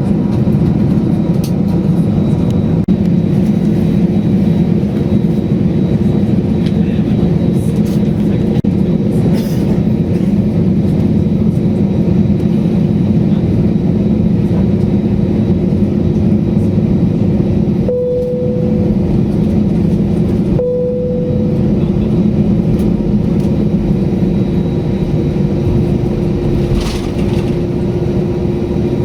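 Steady, loud engine and airflow noise inside an airliner cabin. Two short, steady tones of about a second each sound about 18 and 21 seconds in.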